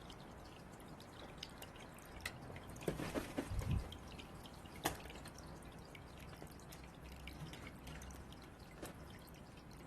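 Birds pecking and tapping at food balls: scattered sharp clicks and taps, with a flurry of louder knocks and a dull thud a little after three seconds in and one sharp tap about a second later.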